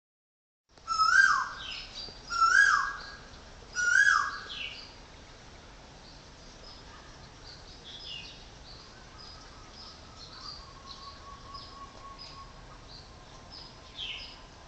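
Bird calls: three loud calls about a second and a half apart, each dropping in pitch, then a scatter of fainter short calls. The uploader wonders whether the birds are woodpeckers.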